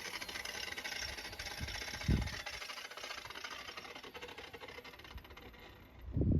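9-inch angle grinder coasting down after the cut stops, its hiss slowly fading over about six seconds. A dull thump comes about two seconds in, and a louder one near the end.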